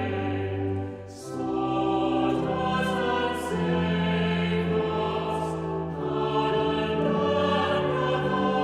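A choir singing in slow, held chords, sung consonants audible, with a brief pause for breath about a second in.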